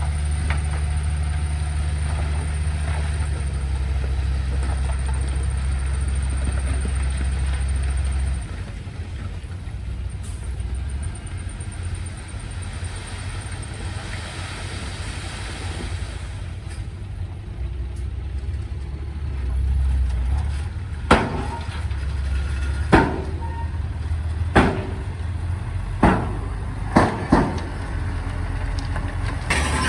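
Heavy diesel construction machinery running with a steady low drone that changes about a third of the way in. In the second half come about six sharp metallic knocks, the loudest sounds here.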